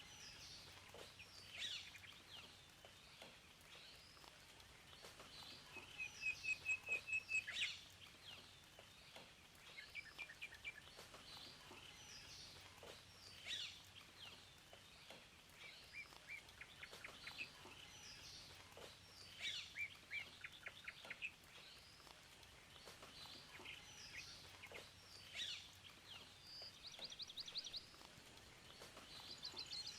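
Several birds chirping and singing, with short calls and rapid trills coming every second or two over a faint steady hiss.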